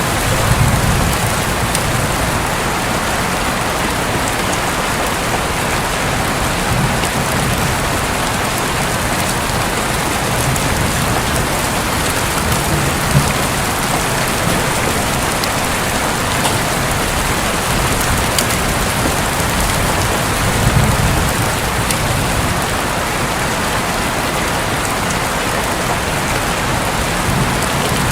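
Steady heavy rain falling on a roof, with several low rumbles of distant thunder rising and fading every few seconds.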